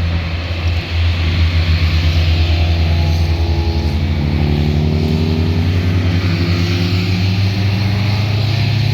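A car's engine and exhaust, loud and low-pitched, with the pitch climbing steadily from about three seconds in as the car accelerates.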